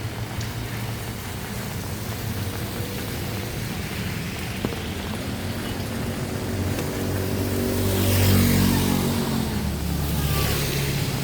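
Street traffic noise, with a motor vehicle passing close: its engine rises to its loudest about eight seconds in, then fades.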